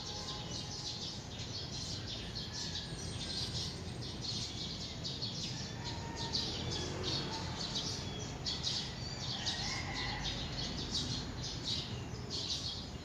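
Small birds chirping off-camera: many short, high chirps, several a second, over a steady low background rumble.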